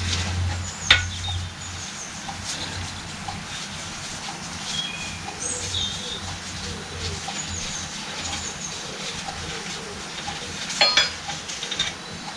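A few light clicks and clinks of small hydraulic pump parts and fittings being handled on the bench, loudest about a second in and again near the end, with birds chirping in the background. A low hum fades out about two seconds in.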